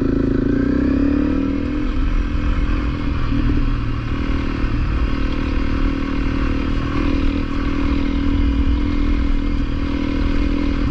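Honda CRF250L's single-cylinder engine running under way on a dirt trail. Its note shifts in the first couple of seconds, then holds fairly steady.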